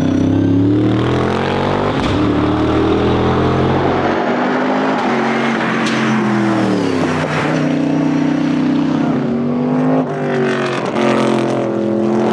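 A classic Ford V8 engine running hard under acceleration. Its note climbs and then drops, sharply about seven seconds in and again after a brief dip about ten seconds in, like a car going up through the gears.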